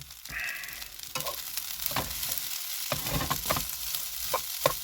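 Rice sizzling as it fries in a pan, with a utensil scraping and knocking against the pan at irregular intervals as the rice is spread and stirred.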